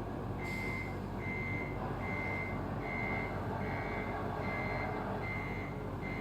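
RC Scania truck model's reversing alarm beeping: eight short, even high beeps a little more than one a second, over a steady low engine rumble.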